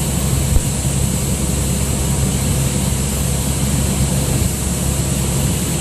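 Cessna 172's four-cylinder engine and propeller droning steadily inside the cockpit, a constant low hum with a wash of noise over it.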